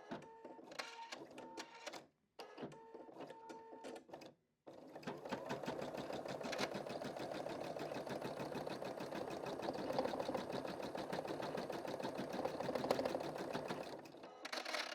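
Computerised embroidery machine stitching: at first slower, uneven clicking over a steady hum, then about five seconds in a fast, even run of needle strokes that thins out again near the end. The sound briefly cuts out twice early on.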